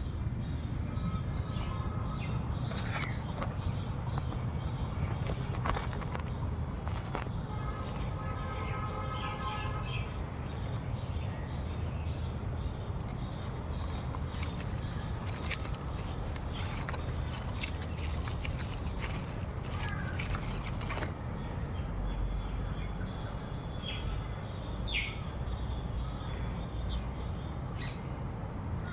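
Steady, high-pitched chorus of insects, with scattered short bird calls over a continuous low rumble.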